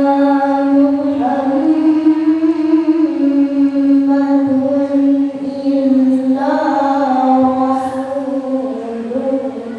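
A single voice reciting the Quran in the melodic tilawah style, holding one long sustained phrase with slight rises and falls in pitch. The phrase sinks lower and fades near the end.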